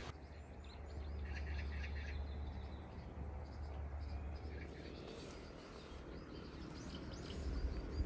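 Small birds chirping and calling, with a quick run of repeated notes about a second in, over a low steady rumble of outdoor ambience.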